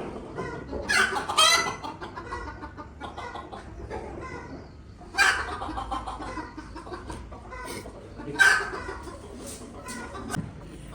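Chickens clucking, with loud calls rising out of it about a second in, again near the middle, and around eight seconds in.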